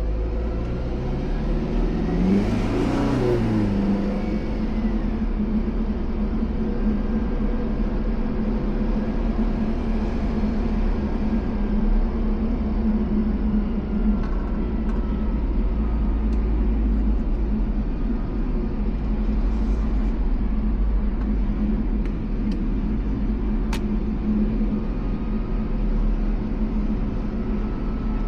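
A car being driven, with a steady low drone of engine and road noise. About two to four seconds in, a louder rush of noise swells and fades, with a pitch that rises and then falls.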